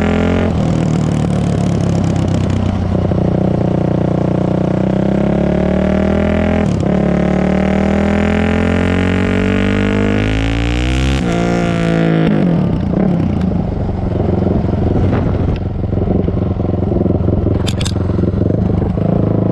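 Honda CRF450R single-cylinder four-stroke engine running loud through an FMF full exhaust with no spark arrestor, its pitch rising and falling as the throttle is worked.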